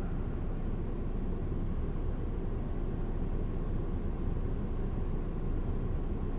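Steady wind rumble on the microphone outdoors, with a faint steady high-pitched tone above it.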